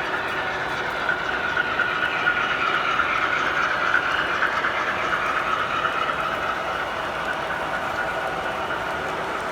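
Model train running along the track with a steady whirring clatter that grows louder about two seconds in and eases off again after about six seconds.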